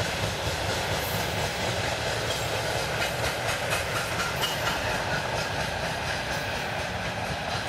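Freight train rolling past across a field, a steady rumble of its wagons on the rails.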